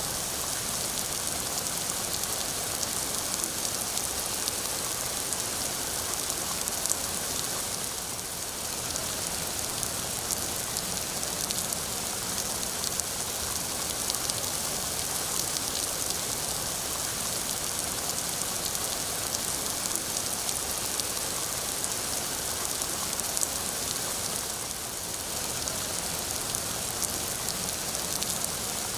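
Steady rainfall: a dense, even hiss of drops with many small ticks of individual drops hitting a surface.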